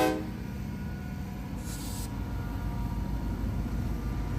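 A diesel locomotive's horn cuts off just after the start, leaving the low, steady rumble of the passing train that slowly grows louder, with a brief hiss about one and a half seconds in.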